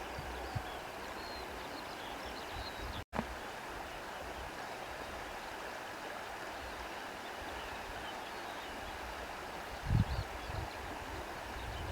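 Steady rushing of wind through vegetation, with faint bird chirps scattered through it. The sound drops out for an instant about three seconds in, and a few low thuds come near the end.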